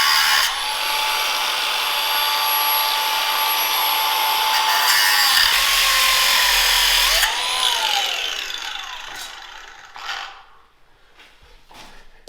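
A power tool working steel runs loud and steady with a whining tone for about seven seconds. It then winds down, its whine falling in pitch as it fades, and a few light knocks follow near the end.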